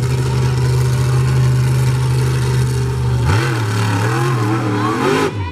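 Monster truck engine held at steady high revs for about three seconds, then revved up and down several times in quick swings.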